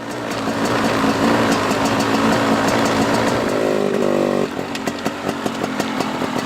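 Dirt bike engine pulling under throttle, its pitch climbing. About four and a half seconds in, the throttle shuts and the engine drops back, with a quick series of clicks.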